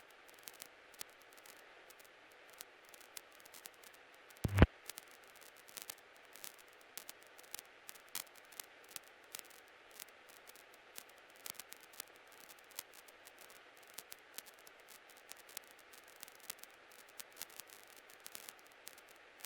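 Faint steady hiss on the cockpit intercom and radio audio feed between transmissions, with scattered crackles of static and one loud pop about four and a half seconds in.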